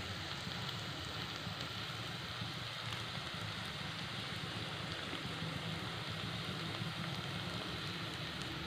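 Chopped asparagus sizzling in hot oil in a metal pan: a steady crackling hiss with scattered faint pops, over a low steady rumble.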